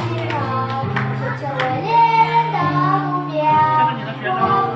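A child singing a melody in held notes over instrumental accompaniment.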